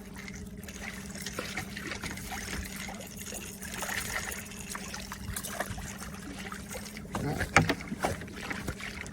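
Boat motor humming steadily at trolling speed, with water trickling and lapping against the hull. A few sharp knocks sound near the end.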